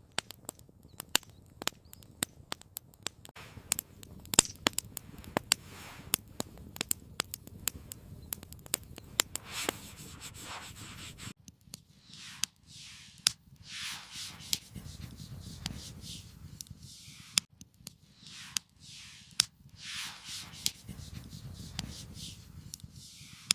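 Campfire crackling with many sharp pops. About eleven seconds in, the sound changes abruptly to repeated rustling swells with only occasional pops.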